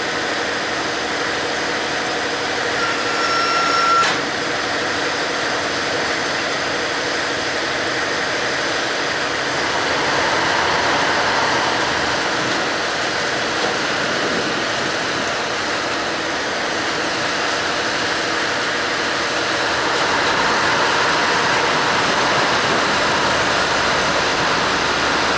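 Engine of a pusher tug running steadily. About three seconds in, a short high steady tone sounds and ends in a click.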